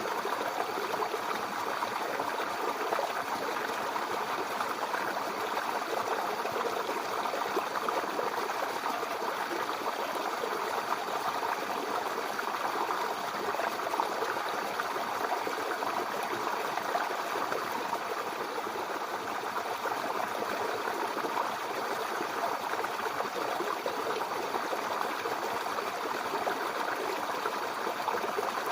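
Babbling brook: water flowing and burbling over stones, an even, steady rush with no pauses.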